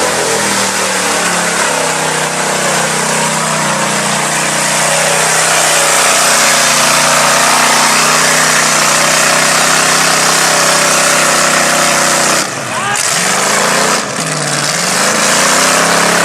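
Mud-bog truck engine running at high revs under full throttle as the truck drives through a mud pit, with spraying mud and tyre noise. Near the end the revs drop twice briefly and pick back up.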